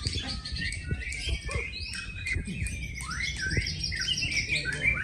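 Many caged songbirds singing at once in competition: dense, overlapping chirps, trills and upward-sweeping whistles, with a low rumble and scattered thumps underneath.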